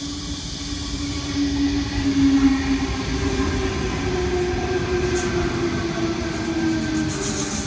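Sydney Trains Tangara electric train moving at the platform: a whine of several steady tones from its electric traction equipment over the rumble of the train, the tones drifting slightly up and then down in pitch. Short bursts of high hiss come near the end.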